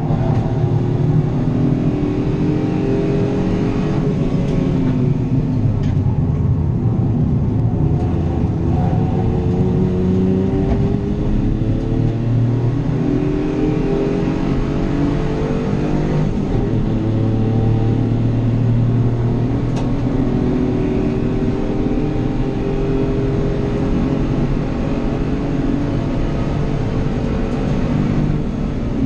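A small race car's engine heard from inside the car on track, accelerating hard. Its pitch climbs repeatedly and drops back at each gear change and under braking.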